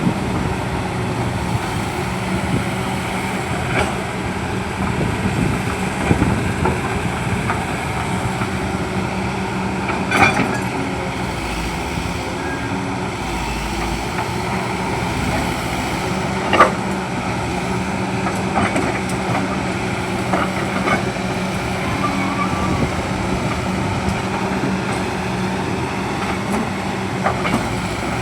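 Excavator's diesel engine running steadily with a constant low hum, with a few sharp knocks, the loudest about ten seconds in and past sixteen seconds.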